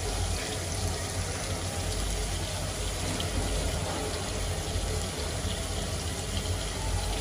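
Onion-tomato masala cooking in a steel kadhai over a gas flame, giving a steady, even hiss.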